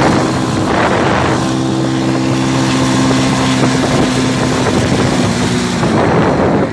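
Motorcycle engine running at a steady speed while riding, with heavy wind buffeting the microphone. The steady engine note fades out about six seconds in, leaving mostly wind noise.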